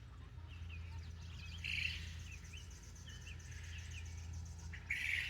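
Ducklings peeping in a run of short, high chirps, with two louder, noisier bursts about two seconds in and near the end.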